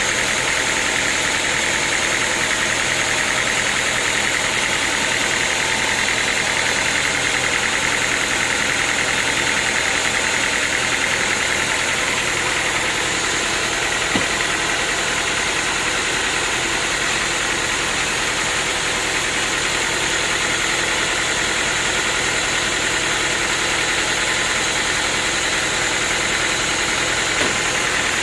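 Sawmill machinery running steadily: a constant mechanical drone with a high, even whine. Two faint ticks come through, one about halfway through and one near the end.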